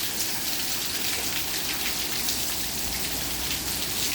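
Steady rain falling: an even hiss with the fine patter of many drops striking surfaces.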